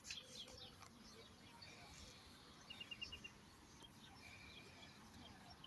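Faint birdsong: scattered short high chirps and a quick run of four or five repeated notes, over a low steady background hiss.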